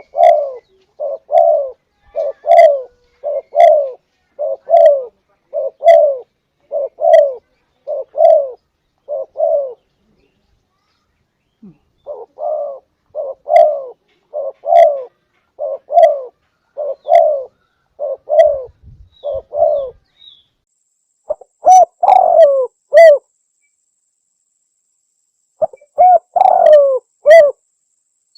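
Spotted dove (tekukur) cooing: a long run of coos about one a second, a pause around ten seconds in, another run, then louder phrases of several quick notes near the end.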